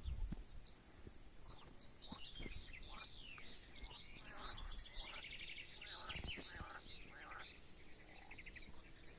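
Small birds chirping and singing, with a fast trill of rapidly repeated high notes about four to five seconds in, over faint outdoor background noise.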